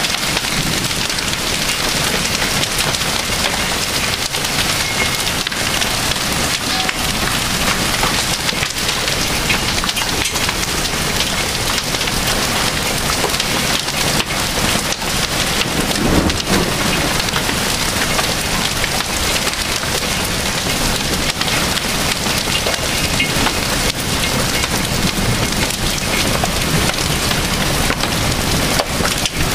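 Hail and heavy rain pelting down, a dense steady clatter of many small impacts, with a brief low rumble of thunder about halfway through.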